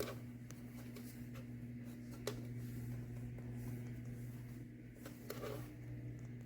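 Small PTC space heater running with a steady low electrical hum from its fan motor. A few light clicks come on top of it: one at the start, one about two seconds in and a couple around five seconds in.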